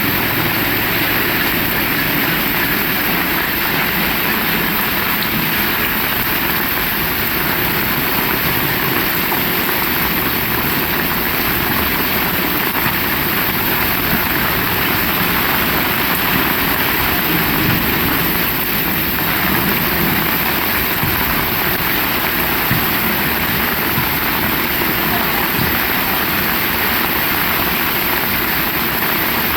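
Heavy rain falling steadily, a constant loud hiss with no thunder or pauses.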